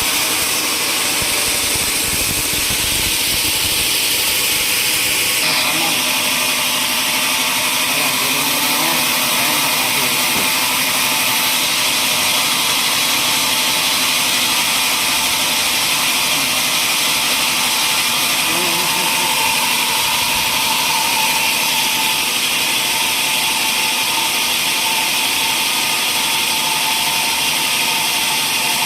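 A power tool running steadily on wood, with a change in its sound about five seconds in.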